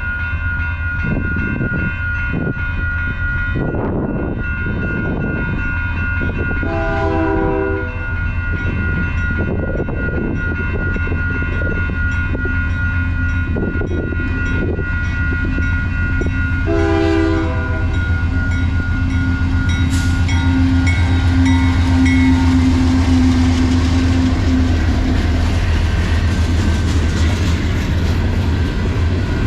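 CN freight train at a level crossing: diesel locomotives with a steady low engine rumble, sounding two short horn blasts about seven and seventeen seconds in. From about eighteen seconds on, the rattle of passing freight cars on the rails grows louder, while the crossing bell rings steadily throughout.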